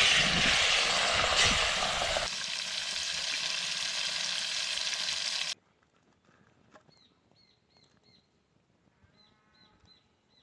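Pieces of catfish frying in hot oil over a wood fire, a loud steady sizzle. About five and a half seconds in it cuts off abruptly to near quiet, with a few faint high chirps.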